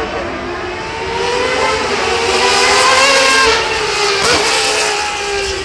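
A competition car's engine running hard past, its pitch climbing for about three seconds and then falling away, with one sharp crack about two-thirds of the way through.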